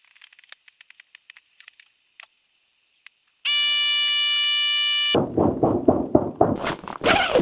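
Faint scattered ticks, then a loud electronic beep held for about a second and a half, followed by a quick run of knocks and clatter.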